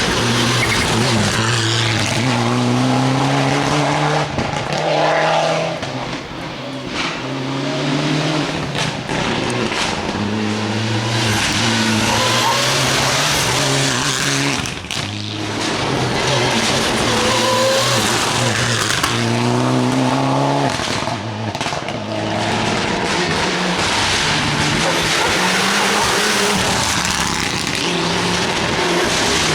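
Rally cars at full throttle on a stage, engines revving up through the gears with the pitch climbing and dropping back at each shift, several times over, alongside tyre and road noise.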